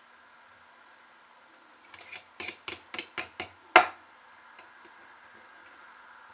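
About half a dozen sharp clicks and knocks in quick succession, the last the loudest: hand tools and small chainsaw carburetor parts handled on a workbench. Crickets chirp steadily under it.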